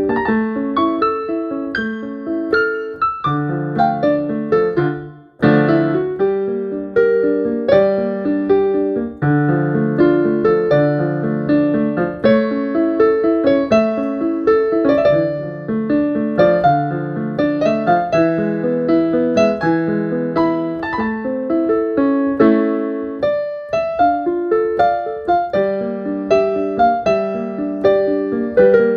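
Solo piano playing a melody over chords, with the notes dying away into a brief pause about five seconds in before the playing picks up again.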